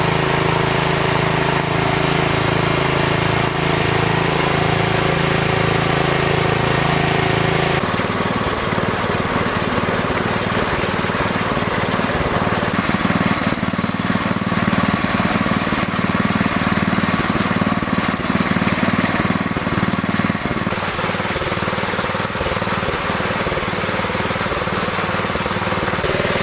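A small engine running steadily under load, in the manner of a motorised rice-harvest machine. Its sound changes abruptly about 8 seconds in and again about 21 seconds in.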